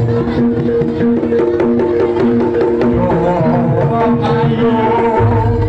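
Jaranan (kuda lumping) ensemble music: rapid hand-drum strokes over several steady, held pitched tones.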